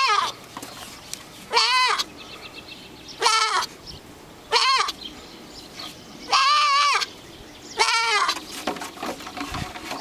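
Pygora goat doe bleating: five high, howling calls of about half a second each, one to one and a half seconds apart, with the end of another call at the very start. The calls have a gull-like ring that is reminiscent of the beach.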